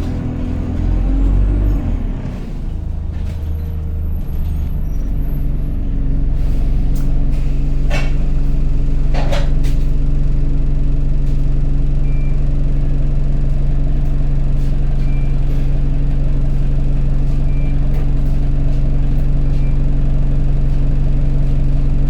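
Single-deck bus engine heard from inside the bus: the engine note falls away in the first two seconds, then settles into a steady hum from about six seconds in. Two short hisses of air come around eight and nine seconds.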